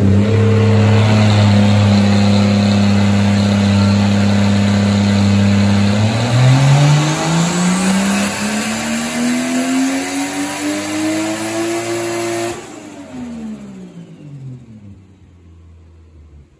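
Turbocharged Toyota 2JZ-GTE inline-six making a full-throttle pull on E85: the engine is held at a steady speed, then its note climbs smoothly for about six seconds. Near the end the throttle closes and the revs wind down and fade.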